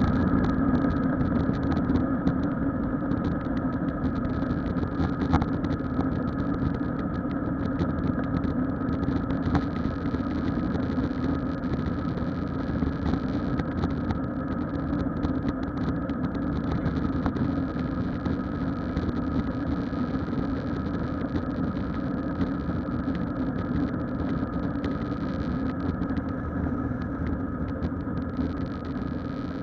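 Jet engine noise of an Airbus A321-231 with IAE V2500 engines, heard inside the passenger cabin: a steady hum with a few held higher tones.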